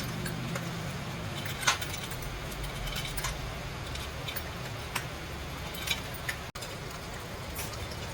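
Scattered light clicks and clinks over a steady background hiss, with a brief dropout about six and a half seconds in.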